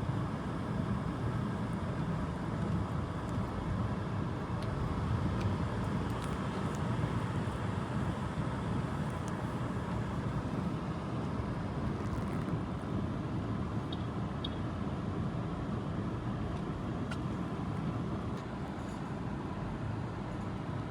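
Steady low rumble of motor vehicle noise that holds level throughout, with a few faint ticks.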